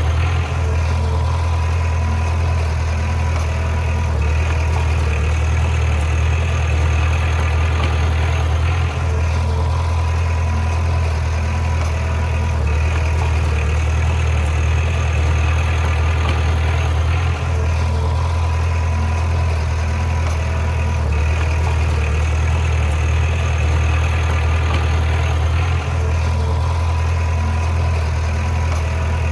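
Bulldozer's diesel engine running steadily with a deep, even drone, its tone shifting slightly every few seconds.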